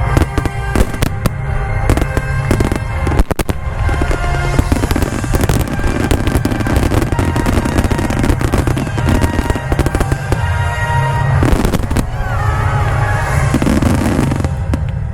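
Fireworks display: a dense, continuous run of shell bursts and crackling, with music playing underneath.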